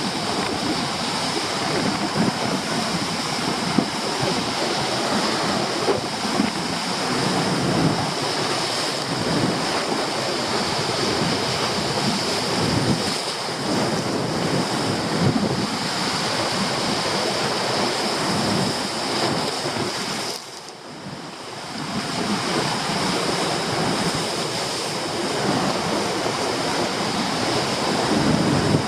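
Storm waves surging and breaking on a rocky shore while strong gusty wind buffets the microphone; the noise drops briefly about two-thirds of the way through, then picks up again.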